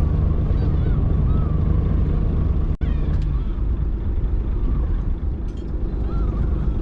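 Fishing boat's engine running steadily with a low rumble, with gulls calling faintly over it. The sound drops out for an instant about three seconds in.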